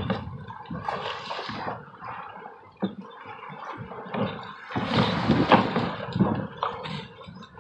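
Seawater rushing and splashing along a sailboat's hull, coming in two surges, the second and louder one about five seconds in, with a short sharp knock a little under three seconds in.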